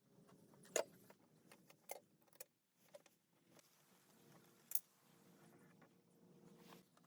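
A few sharp clicks and light taps, two of them louder, about a second in and near five seconds, over a faint steady hum.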